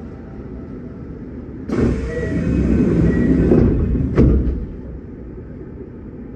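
Kintetsu 1252 series electric train running, heard inside the car as a steady low rumble. About two seconds in a sudden, louder noise swells over it for about two and a half seconds, ends in a single sharp knock, then dies back to the steady rumble.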